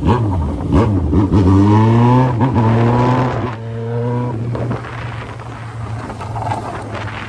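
Yamaha XJ6's inline-four engine through a 3-inch exhaust, accelerating with its pitch climbing for about three seconds, then settling into a steadier, quieter run.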